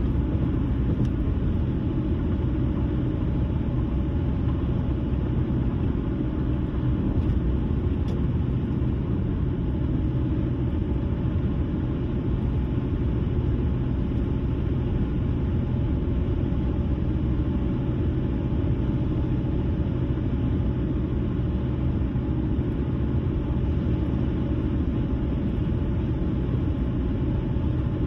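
Car driving at a steady cruising speed: a steady low rumble of road and engine noise that does not change.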